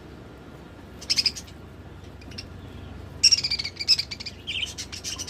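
Budgerigars chirping and chattering: a short burst about a second in, then a busier run of chirps through the last two seconds.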